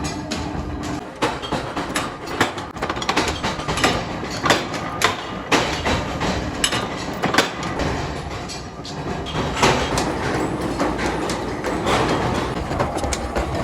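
Metalworking machinery making tractor wheel bolts, running steadily with irregular metal clanks and knocks.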